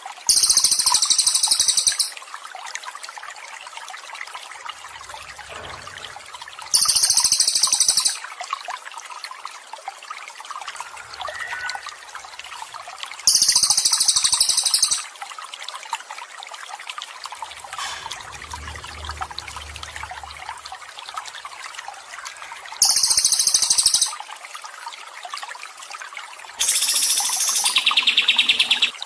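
Trickling water running steadily, with a songbird's loud, high, rapid trill breaking in five times, each burst about a second and a half long; the last one has a lower second part.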